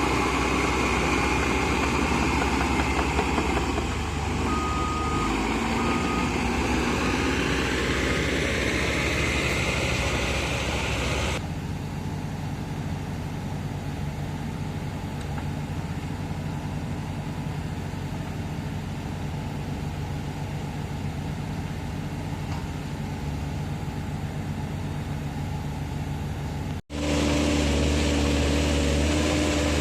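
Heavy earthmoving machines' diesel engines running and revving, with two short beeps about five seconds in. The sound cuts abruptly to a quieter engine about eleven seconds in, and again near the end to a louder, steady engine hum.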